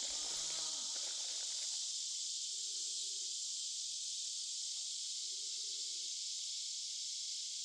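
Steady, high-pitched drone of an insect chorus in the forest.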